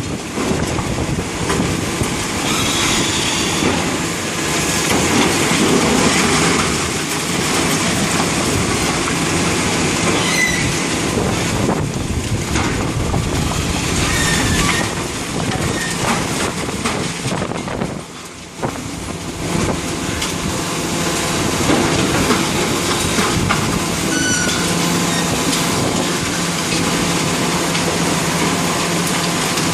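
Demolition machinery working on a concrete building: a steady, loud mechanical rumble and grinding, with short high metallic squeals now and then and a brief lull about two-thirds of the way through.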